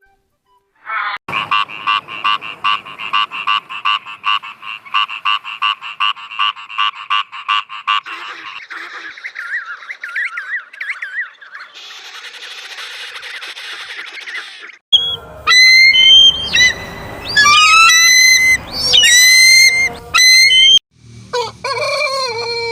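A fast rattling animal call of about four to five pulses a second for several seconds, then a rooster crowing loudly several times.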